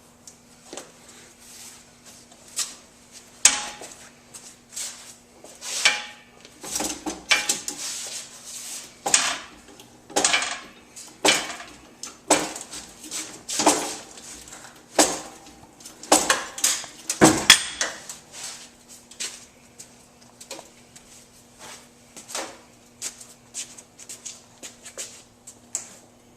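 Irregular metallic clinks and clanks, about one a second, over a faint steady hum: metal tools and parts being handled and set up while the frame is braced and jacked.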